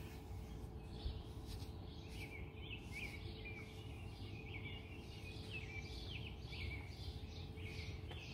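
Faint outdoor ambience: small birds chirping, a run of short repeated chirps starting about two seconds in, over a steady low background rumble and faint hum.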